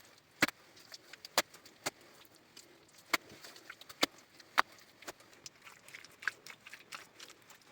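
A run of sharp, irregular knocks and clicks, as from hard objects striking one another, the loudest about half a second, a second and a half, three, four and four and a half seconds in.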